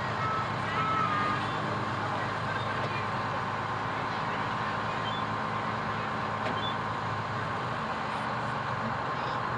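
Fire truck's engine running steadily while the truck drives slowly along, heard from inside the cab.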